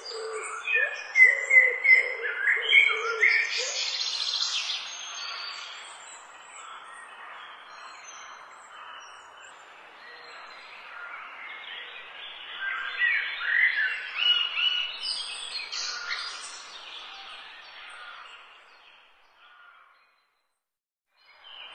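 Birds chirping and singing in two spells, loudest in the first few seconds and again about twelve to sixteen seconds in, with low repeated calls under the first spell. The chirping fades out near the end.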